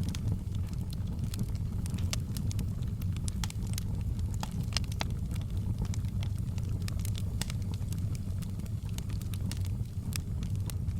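Fireplace fire crackling: many sharp, irregular pops and snaps over a steady low rumble of the flames.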